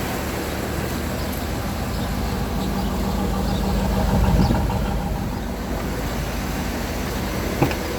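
Turbocharged LS V8 of a Chevy Silverado SS idling steadily through a stock muffler, fairly quiet. The sound swells briefly about four seconds in, and there is a sharp click near the end.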